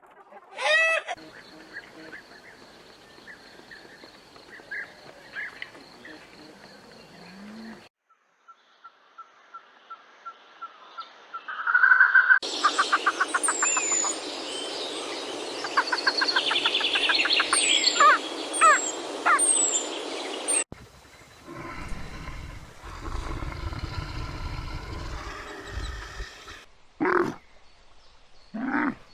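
A run of different animal recordings cut one after another. There are short pitched calls, a rapid pulsing call, high chirps like birdsong, a long low rumble, and two loud short calls near the end.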